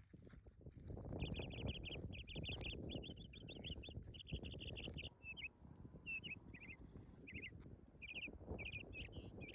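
A small bird calling in quick runs of short, high chirps, several notes at a time with short gaps, starting about a second in. A low scratchy noise runs underneath in the first half.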